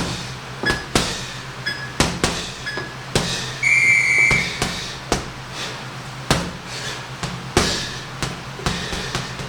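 Punches thudding into a heavy bag in irregular combinations. Near the middle comes a single steady electronic beep lasting about a second, the kind a boxing round timer gives.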